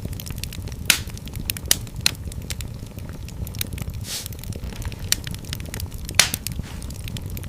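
Wood fire in a fireplace crackling, with irregular sharp pops over a steady low rumble of flames. The loudest pops come about a second in, a little later, and just after six seconds, and there is a brief hiss around the middle.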